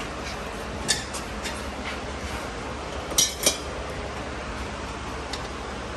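Light metallic clinks and taps of stainless exhaust pipe pieces being handled and set in place: a few small ones, then two sharper clinks a little past three seconds in. Over a steady background hiss.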